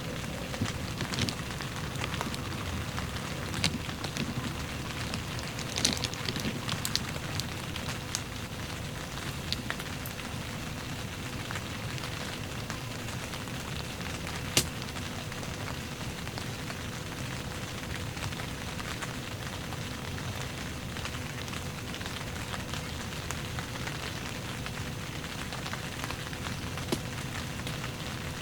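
Steady heavy rain falling, an even hiss with scattered sharp drop taps.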